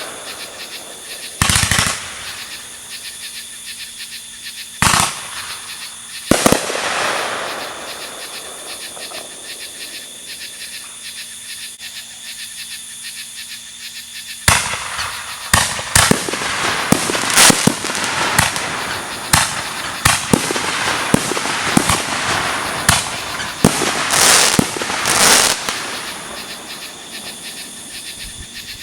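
Aerial fireworks bursting: a few separate booms with crackling tails in the first several seconds, then, from about halfway, a rapid run of bangs and crackle.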